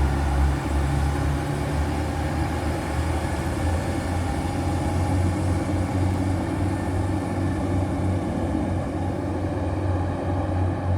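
Diesel train engine running steadily, a continuous low drone with a faint higher tone above it.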